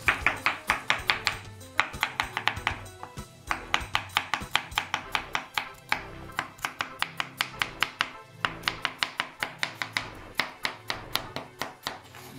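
Knife chopping on a cutting board in quick runs of about five strokes a second, with brief pauses between runs.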